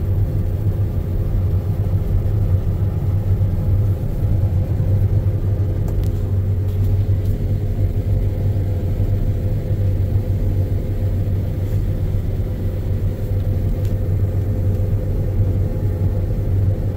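John Deere X9 combine harvester running steadily under load while harvesting canola, a low, even drone with a faint steady hum above it, heard from inside the cab.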